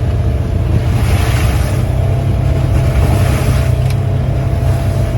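Polaris side-by-side running steadily while being driven on a trail, with an even low engine rumble and a hiss of wind over it.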